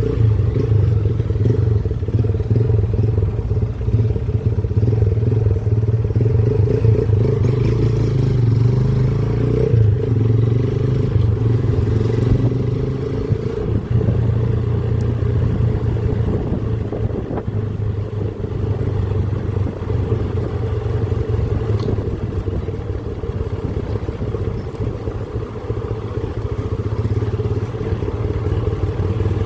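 Motorcycle engine running steadily while riding, its low note easing a little about halfway through.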